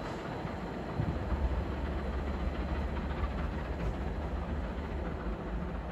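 The British Pullman charter train running past, hauled with a Class 67 diesel locomotive on the rear: a steady low rumble of the train.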